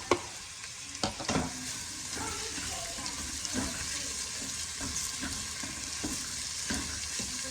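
Food sizzling in a frying pan while a utensil stirs and scrapes through it, with a few sharp knocks of the utensil against the pan in the first second and a half.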